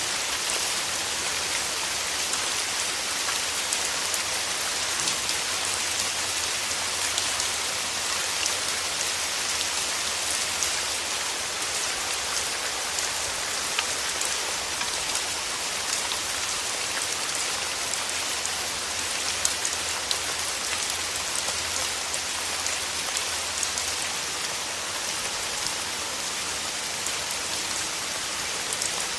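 Steady rain falling on a surface, an even hiss with many small drop patters and no pauses.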